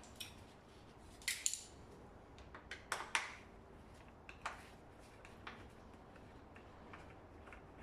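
A few light, sharp clicks and clinks of tools and scooter parts being handled, spaced a second or two apart, with quiet between them.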